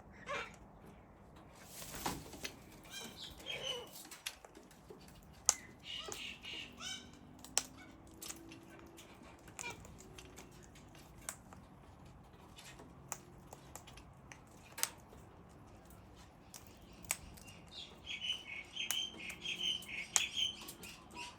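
Cockatoos at play: scattered sharp clicks and taps throughout, with short bursts of soft calling about six seconds in and again near the end.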